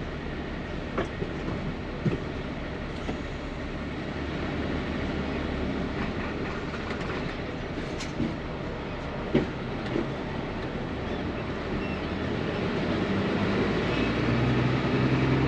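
Small rigid truck pulling away slowly, its engine and cab noise heard from inside the cab, with a few sharp rattles and knocks. The engine note grows louder near the end as the truck picks up speed.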